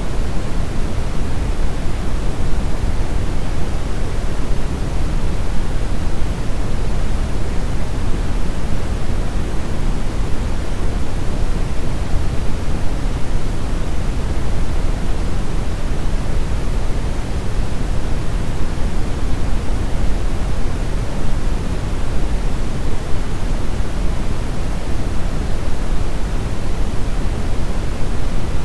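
Steady brown noise: a continuous, even rumbling hiss weighted to the low end, with no tones or individual sounds.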